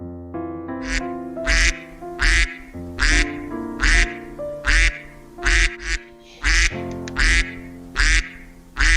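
Duck quacking over and over, about eleven quacks at roughly one every three-quarters of a second, over steady background music.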